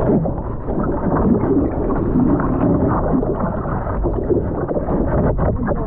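Ocean surf and splashing water, a loud continuous rushing with wind buffeting the microphone.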